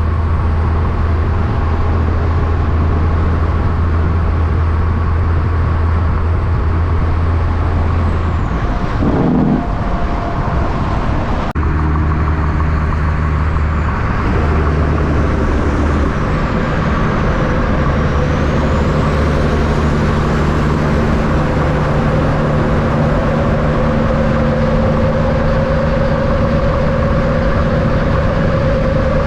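Heavy diesel semi-truck engines and road traffic running steadily. One engine's pitch drops and comes back up about nine seconds in.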